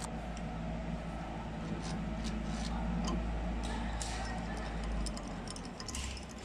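Mini CNC wood-turning lathe running: a steady motor hum with short, scratchy cutting sounds scattered through it. The hum drops away about five seconds in.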